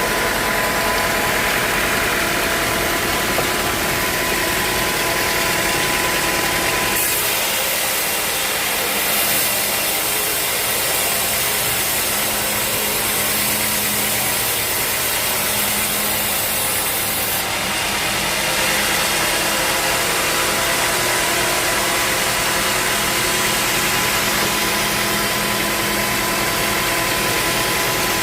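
Sawmill engine running steadily, with a brighter hiss joining for about ten seconds in the middle.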